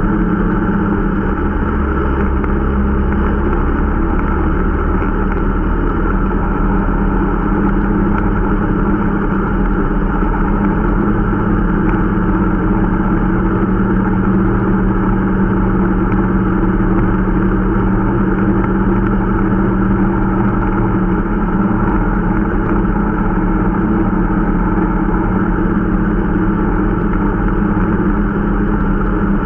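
Irbis Dingo T125 snowmobile's 125 cc engine running steadily at a fairly even speed, being run in.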